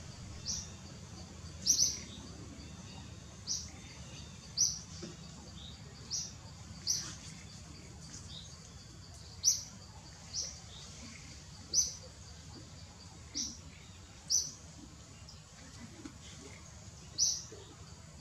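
A bird repeating a short, high chirp, about once a second at irregular intervals, over a steady low background rumble.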